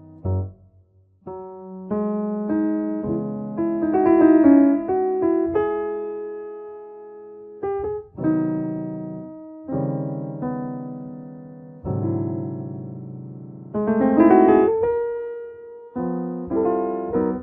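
Solo piano background music: slow chords struck and left to ring out, re-struck every second or two.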